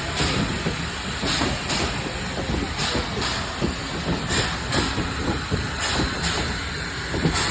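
Steam train on the move, heard from a carriage behind TKh class tank locomotive 5374: a steady low rumble with short bursts of hiss that come in pairs roughly every second and a half.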